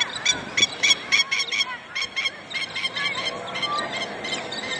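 A bird giving a rapid series of short, sharp calls, about four a second, strongest in the first two seconds and looser and weaker after.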